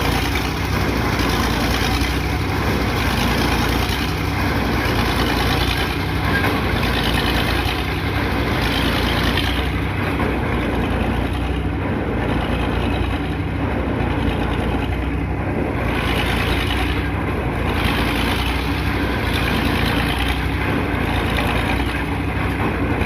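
Heavy diesel engine of piling machinery running steadily at a constant speed, with no hammer blows standing out.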